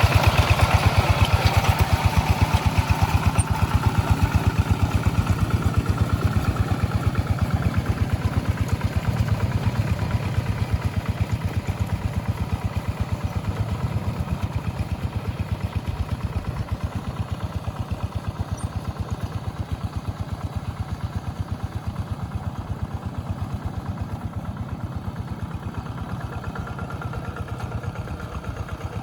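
Rice-field tractor engine running steadily with a fast, even firing beat as it works the paddy, slowly getting quieter as it moves away.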